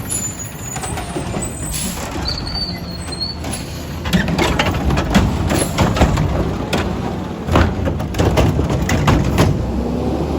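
Autocar ACX McNeilus Meridian garbage truck with a Curotto Can running, with a brief high squeal about two and a half seconds in, then a rapid series of knocks and clatter from about four seconds in as it works the yard waste.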